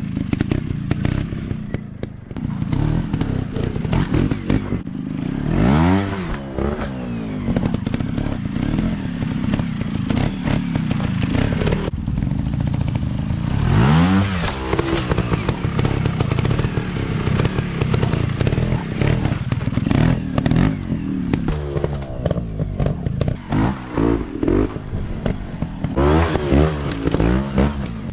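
Dirt bike engine revving up and down as it is ridden, the pitch climbing and dropping several times, with quick repeated throttle blips near the end.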